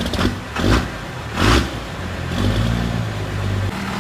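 Freshly started Cummins diesel engine of a pull truck, revved in two sharp blips about a second apart, then settling into a steady idle.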